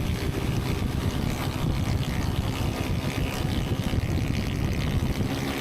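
Police motorcycle engine running at speed, with steady, fluttering wind rumble on the onboard camera's microphone.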